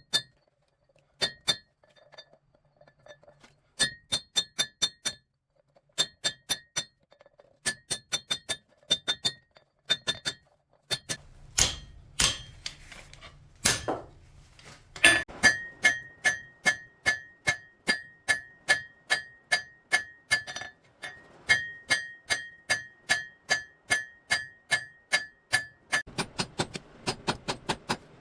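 Hand hammer striking steel on an anvil, each blow ringing. The blows come in short groups with pauses at first, then settle into a steady run of about four a second with a clear high ring.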